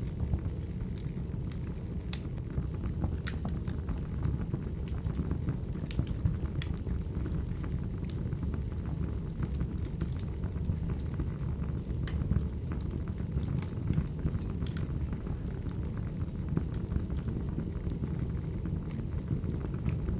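Wood fire burning: a steady low rumble with sharp crackles and pops at irregular intervals.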